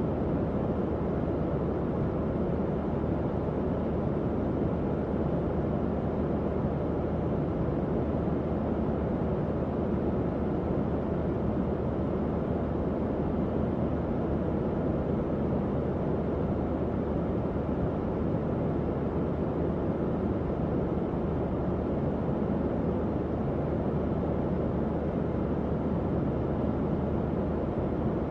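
Tower fan running steadily: an even, low whooshing rush of air with no change in level.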